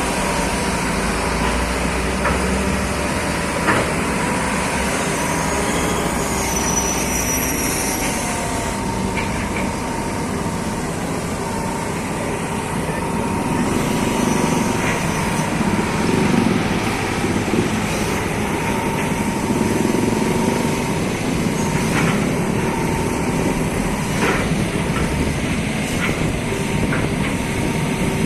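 Excavator's diesel engine running steadily, getting a little louder about halfway through, with a few sharp knocks.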